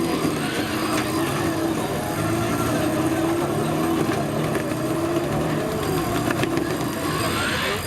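Off-road 4x4 vehicle engine running under load, its pitch rising and falling.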